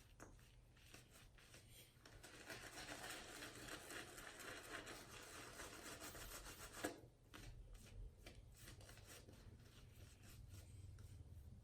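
Silvertip badger shaving brush working shaving-soap lather, a faint rapid scratchy swishing that is strongest in the middle and fainter toward the end. A single sharp click about seven seconds in.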